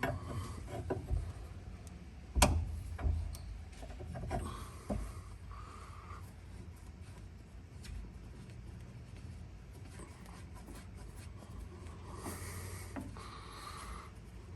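Metal hand tools clinking and knocking, with one sharp knock about two and a half seconds in. After that come quieter rubbing and scraping sounds as a wrench is set on a fuel-tank fitting and worked.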